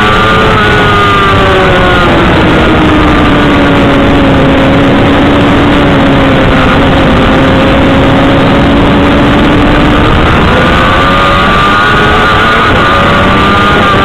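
Motorcycle engine at track speed heard onboard, loud under heavy wind noise on the microphone. The engine note falls over the first few seconds, holds low for a while, then rises again about ten seconds in as the bike picks up speed.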